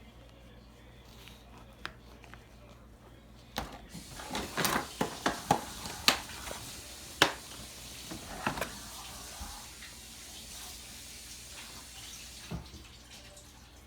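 Water running from a kitchen tap into a sink for several seconds, with a quick run of sharp clinks and knocks, like dishes or utensils being handled, about four seconds in.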